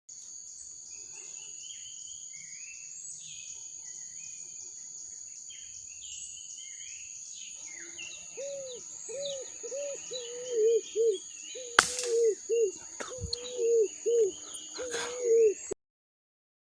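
Forest birds and insects: a steady high insect trill with scattered small bird chirps, then a loud run of low, repeated arching calls from about halfway, about two a second. A single sharp click falls among them, and the sound cuts off suddenly shortly before the end.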